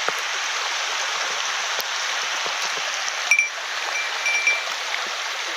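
Small mountain headwater stream running over rocks, a steady rushing of water. About three seconds in there is a light knock, followed by a few short high ringing notes.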